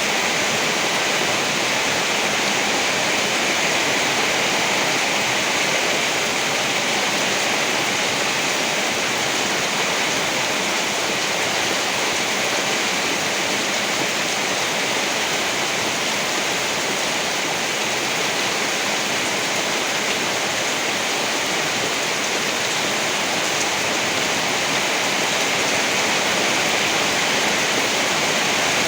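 Steady heavy rain, an even, unchanging hiss with no thunder claps or rumbles.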